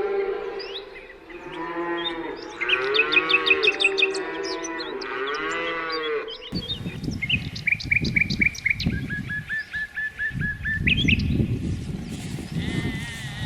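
Cattle mooing several times, each call rising and falling in pitch, with small birds chirping over them. About halfway the sound cuts to a run of bird chirps over a low rumble.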